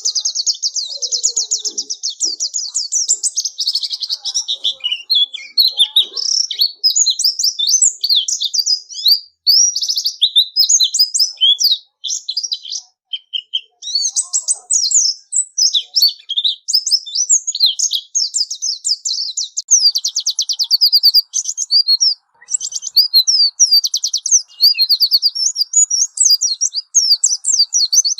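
White-eye (pleci) singing a fast, high-pitched twittering song of rapid trills and chirps, broken by a few brief pauses.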